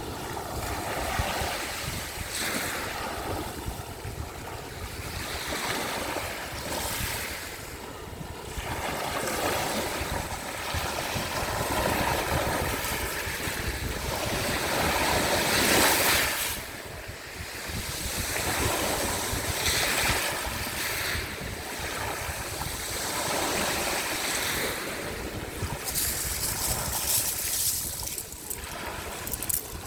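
Sea waves washing onto the shore, swelling and falling back every few seconds, the loudest surge about halfway through. A low rumble of wind on the microphone runs underneath.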